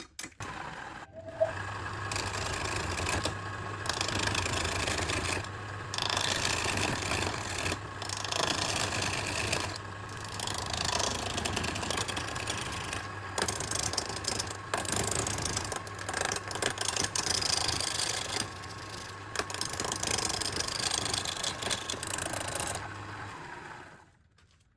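Woodworking machine running with a steady motor hum while cutting into redwood burl, a broad rasping noise over the hum. The sound drops out abruptly for a moment several times and stops about a second before the end.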